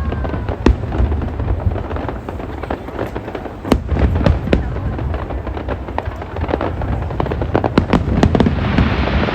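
Aerial fireworks going off in quick succession: many sharp bangs and crackles over a continuous low rumble, with a hissing rush building near the end.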